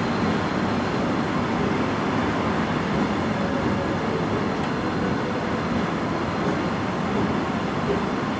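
Steady running noise of a heritage passenger train rolling slowly through a station, its wheels on the rails, heard from on board the carriage.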